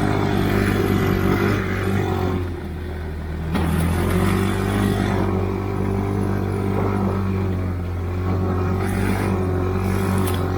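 Stalker snowmobile engine running as it rides, easing off briefly about two and a half seconds in and picking up again a second later.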